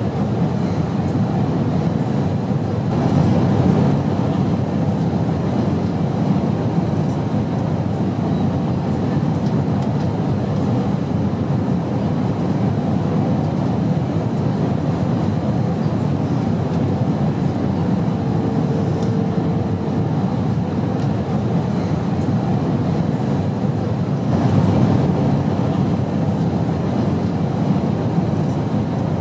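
Steady airplane noise in flight: an even low rumble with a faint hum, briefly swelling louder twice.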